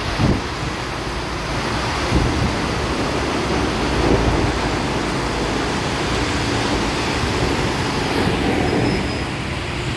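Truck driving on a wet highway in rain: steady road and engine noise with a hiss of spray, broken by a few low thumps.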